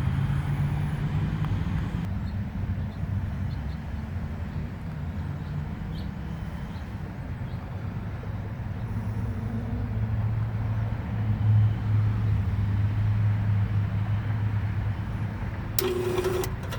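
Bryant 561C air conditioner's compressor humming as it tries to start with a hard start kit fitted but fails to run: a stalled compressor that turns about half a turn and stops. A low steady hum that grows louder from about halfway, with a short clatter near the end.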